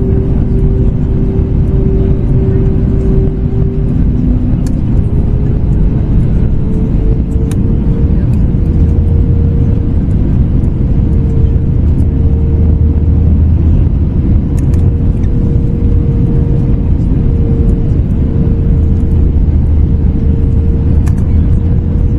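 Cabin noise of an Airbus A321neo in flight: the steady rumble of its Pratt & Whitney PW1100G geared turbofans and airflow. The engines' hum shifts about four seconds in and climbs a little in pitch over the next few seconds, then holds steady.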